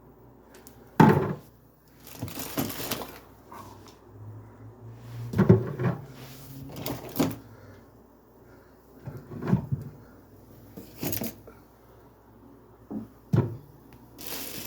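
Groceries being handled and put away: a string of separate knocks and clunks, one every second or two, as items are set down and a cupboard or fridge door is moved, with a short rustle of packaging about two seconds in.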